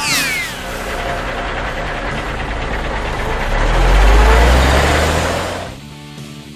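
Cartoon sound effects: a quick falling whistle-like sweep at the start, then a truck engine rumble that swells to its loudest about four seconds in and fades out near the end.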